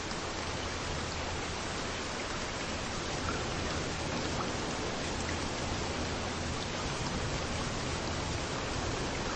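Steady rain falling, an even hiss with a few single drops ticking close by now and then.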